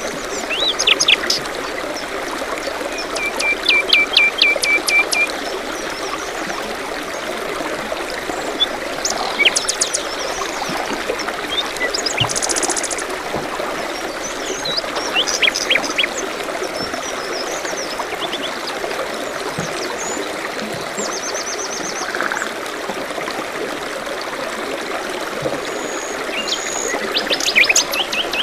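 A small stream trickling steadily, with several songbirds singing and chirping over it: a quick run of repeated notes a few seconds in, high fast trills, and scattered short calls.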